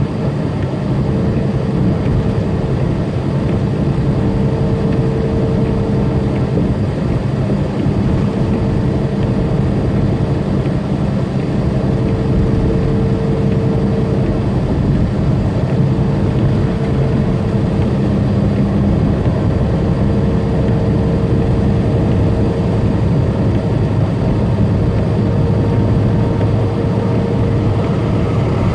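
Tractor-trailer's diesel engine droning steadily while cruising on the interstate, heard from inside the cab together with road noise, with a constant hum above the drone.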